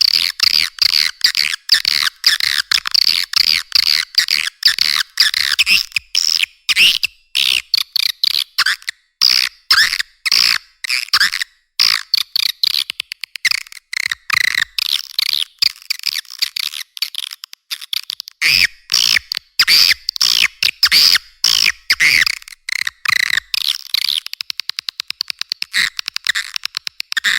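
Swiftlet lure-call recording: edible-nest swiftlets chirping and twittering in quick, overlapping calls, with runs of rapid clicking, most densely near the end. The sound is thin and high, with almost nothing below the middle of the range.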